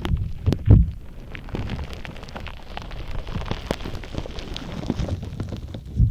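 Gritty shaved-ice (kakigori) slime being squeezed and kneaded by hand close to a binaural microphone: dense crackling and squishing over soft low thuds, with a louder squelch about a second in.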